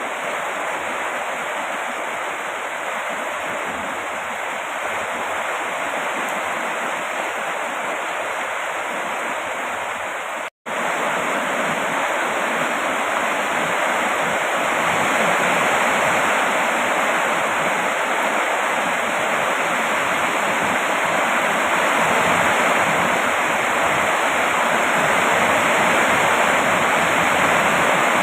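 Steady heavy rain, an even, continuous hiss of falling water. It cuts out for an instant about ten seconds in, then resumes slightly louder.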